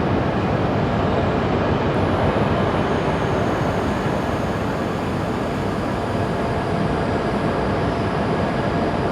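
Shinkansen train running along the platform, a steady rumble and rush of noise with no break or pause.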